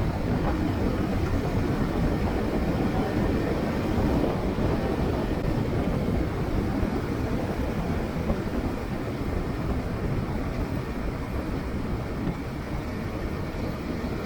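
Steady rumble of wind and road noise on a moving motorcycle, a dense even roar heaviest in the low end with no pauses.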